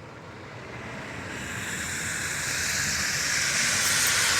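A vehicle's tyres hissing on a slushy, snow-covered road as it approaches, the hiss growing steadily louder.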